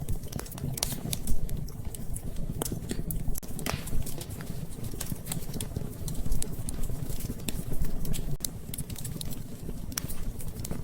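Wood fire crackling in a fireplace: sharp, irregular pops and snaps over a low, steady rumble of flames.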